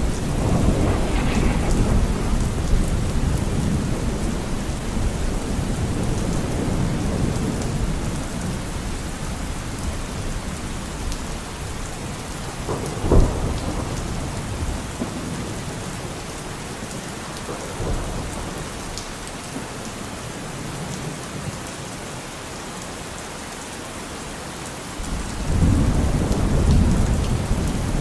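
Steady rain falling with thunder: a low rolling rumble fading away over the first ten seconds, a sharp thunderclap about 13 seconds in, and another rumble building near the end.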